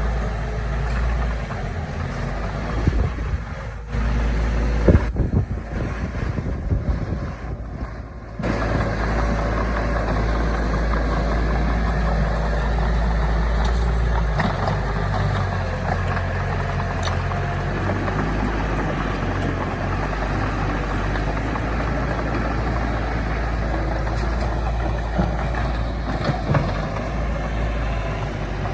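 Heavy diesel earthmoving machinery running steadily with a deep engine rumble, with a few sharp knocks a few seconds in.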